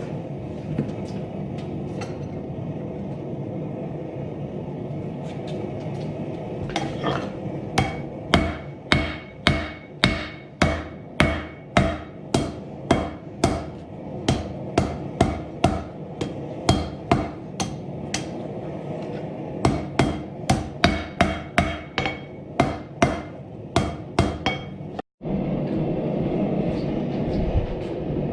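Hand hammer striking hot steel on an anvil, a long run of sharp ringing blows at about two a second, over a steady rushing noise. The blows begin after several seconds and stop near the end.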